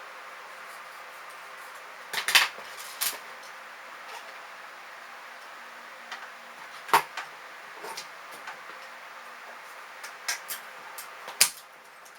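Scattered short clicks and rustles of a cardboard wheel, plastic drinking straw and wooden skewer being handled as the wheel is fitted onto the skewer axle, over a steady faint hiss.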